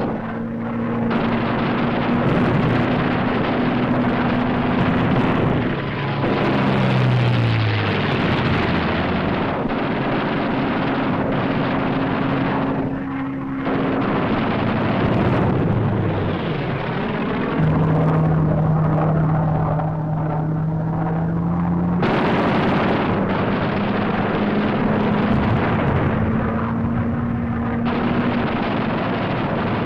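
Propeller fighter planes' engines droning loudly in several spliced stretches. Each stretch holds a steady engine tone, and a few of them drop in pitch as a plane passes.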